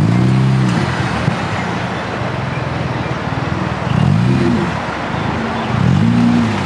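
Car engines running at a car meet, with a steady rumble and three short rising-and-falling revs: one at the start, one about four seconds in and one about six seconds in.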